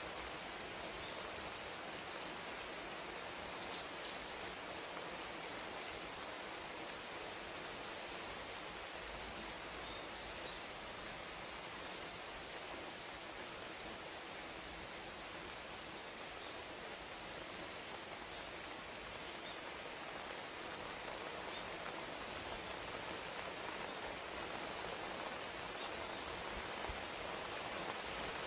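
Steady rain falling, an even hiss, with a few faint, short, high bird chirps about 4 seconds in and again around 10 to 12 seconds in.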